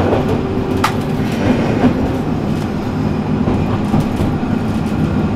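Akechi Railway diesel railcar running, heard from inside the car: a steady engine drone under the rumble of the wheels on the rails. A single sharp click comes about a second in.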